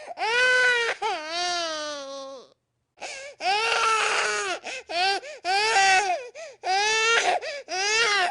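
Infant crying: one long wail that sinks in pitch, a brief gap, then a string of shorter cries of about a second each, rising and falling in pitch.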